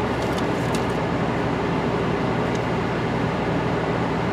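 Steady hum inside a stationary car's cabin with the engine idling.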